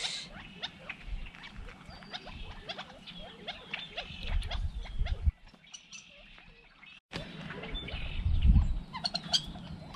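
A flock of birds calling, many short quick calls overlapping, over a low rumble; the calls drop nearly away for about two seconds midway, then resume.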